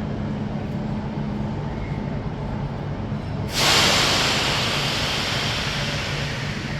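Train standing at a platform with a steady low mechanical hum. About halfway through, a sudden loud hiss of compressed air venting, typical of a train's air brakes releasing, then slowly fading.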